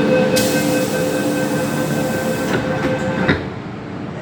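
MTR M-Train electric multiple unit running, heard from the driving cab: a rumble with a steady multi-tone whine from the traction equipment and a high hiss. A few sharp clicks come about three seconds in, after which the sound drops and the whine fades.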